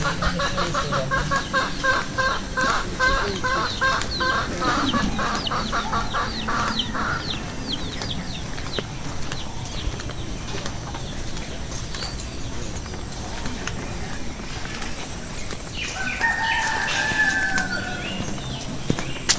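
Domestic chickens clucking in a fast, even run for the first seven seconds or so, with small bird chirps. Near the end comes one long, slightly falling call lasting about two seconds.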